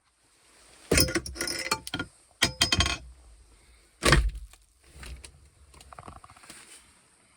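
Loud bursts of clattering and rattling, like hard objects handled and knocked together, about a second in and again about two and a half seconds in, then a single sharp knock, followed by quieter rustling and small ticks.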